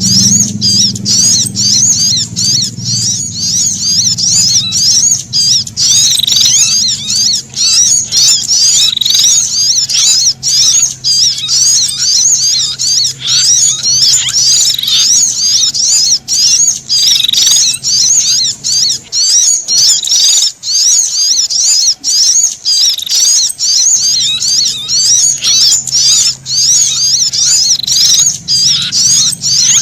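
Looped bird-lure recording of brown-throated sunbird and prinia alarm calls: rapid, high-pitched, wavering chirps repeated without pause, the sound of frightened birds used to draw wild birds in. A low hum runs underneath and drops out for about five seconds just past the middle.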